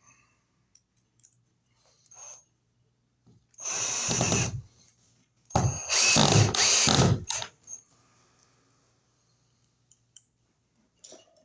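Power drill driving screws in two short runs: one about a second long, then a longer run of about two seconds with a brief let-off in the middle. Light handling clicks come before and after.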